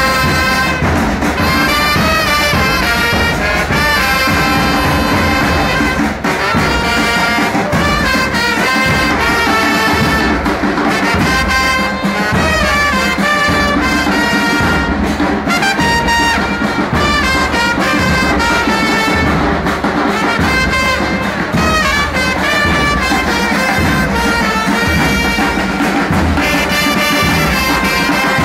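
Brass band of trumpets and trombones playing a football terrace chant melody over a steady, regular drum beat.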